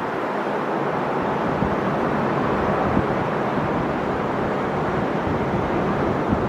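Ocean surf: waves washing continuously onto the shore in a steady rush.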